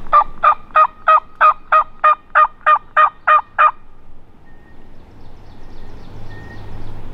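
Hunter's turkey call sounding a long run of about a dozen evenly spaced hen yelps, roughly three a second, meant to pull a gobbler back uphill. The run stops a little under four seconds in.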